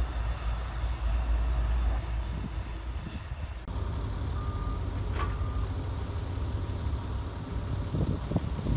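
Freight train rumbling low and steady as it moves away. Partway through, this gives way abruptly to a quieter, more distant locomotive rumble, with a single short steady beep lasting about a second.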